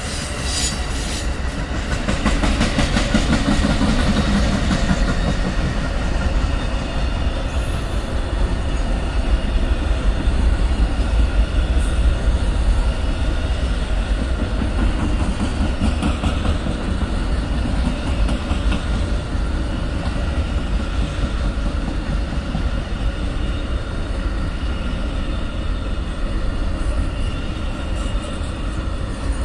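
Amtrak Auto Train cars rolling past: a steady rumble of steel wheels on the rails, growing louder a couple of seconds in. The passenger coaches give way to a long run of enclosed auto-carrier cars.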